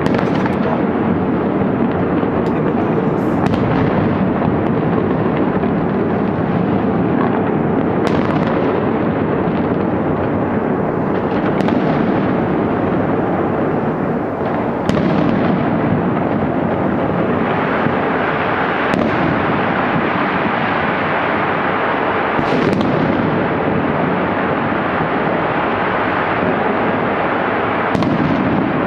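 Fireworks and firecrackers going off in a dense, unbroken barrage, with louder single bangs standing out every few seconds.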